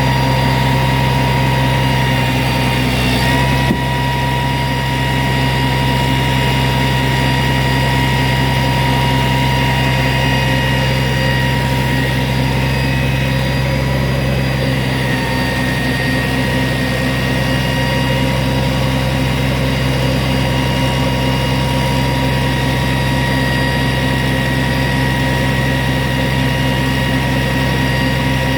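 An engine running steadily at idle, with a constant low drone and a thin steady whine above it; a single short knock comes about four seconds in.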